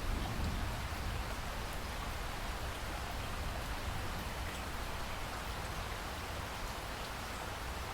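Steady rain falling: a constant hiss with faint, scattered drop ticks and a low rumble beneath.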